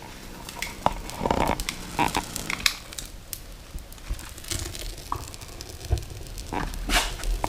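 Birch bark crackling in a wood stove, with irregular snaps and pops.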